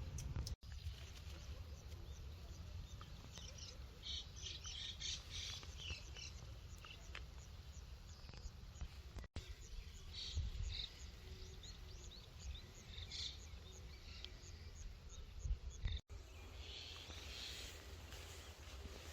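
Small birds chirping and twittering in many short, high calls, over a steady low rumble. The sound drops out abruptly for a moment three times.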